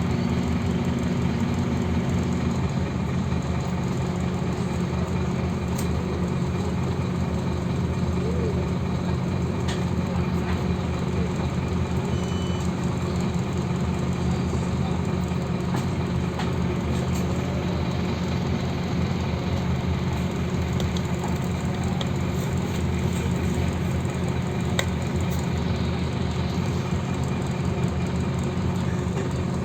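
Scania OmniLink city bus engine running with a steady low hum; a higher tone in the hum drops out about two seconds in.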